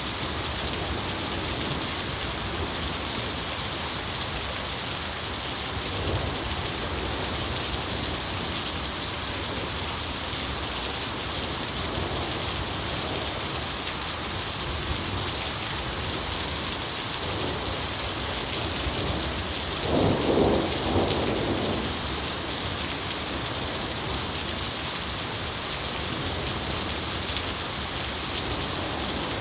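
Steady heavy rain falling, with low rolls of thunder: faint ones about a fifth and two-fifths of the way in, and a louder rumble about two-thirds of the way through.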